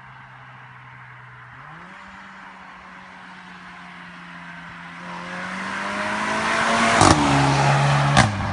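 Škoda Octavia RS 230's 2.0-litre turbocharged four-cylinder petrol engine running at a steady low speed, then revving up slowly and growing louder. About seven seconds in there is a sharp exhaust crack as the revs fall, and another about a second later.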